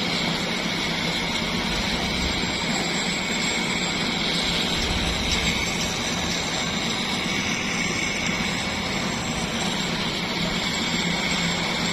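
An engine running steadily with a constant whine over it, with no change in speed.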